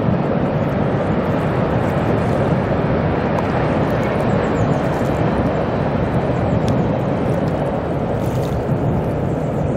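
Freight train of container wagons crossing a long steel truss railway bridge: a loud, steady rumble.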